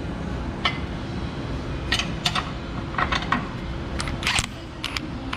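Hand tools clinking and tapping against the steel suspension parts and a stuck control arm bolt, a string of irregularly spaced sharp metallic clinks over a steady low hum.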